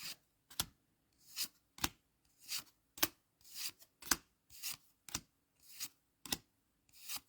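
Score Dragon Ball Z trading cards being slid off a stack one at a time, each a short papery slide ending in a light snap, about two a second.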